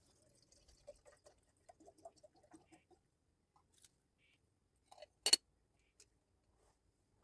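Faint scattered taps and small knocks, then one sharp clack a little past five seconds in.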